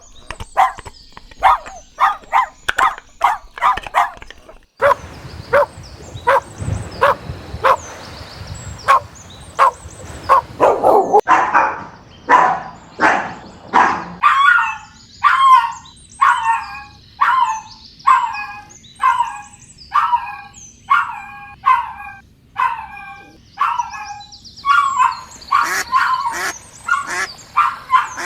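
Puppies barking and yipping over and over, short high barks about one to two a second. A low rumbling noise runs under the barks for several seconds in the first half.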